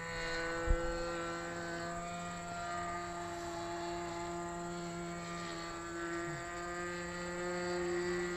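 Remote-control model aircraft built as a flying lawnmower, its motor and propeller running with a steady drone in flight. A brief knock comes about a second in.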